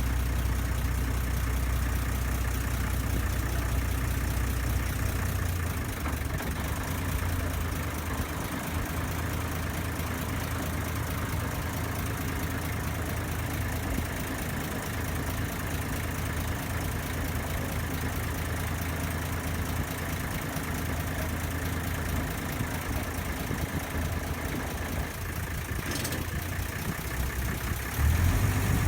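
A ferry boat's engine running steadily with a low hum, under a wash of water and wind noise. The hum eases after about six seconds and swells again near the end.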